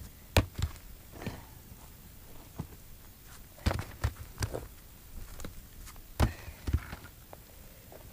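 Footsteps and scuffs on rocky ground with a series of separate knocks of stone on stone, as a large flat stone is shifted into place for a fire-pit wall.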